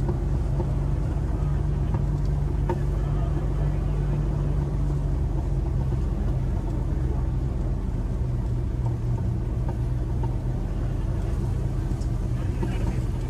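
Land Rover 4x4's engine running steadily under way, a low even drone, with a couple of faint knocks about three seconds in and near the end.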